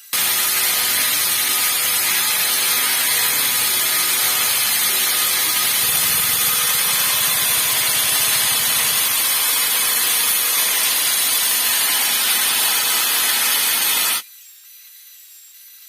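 Power tool grinding or sanding steel or wood, a steady hissing run that starts abruptly and stops suddenly about fourteen seconds in.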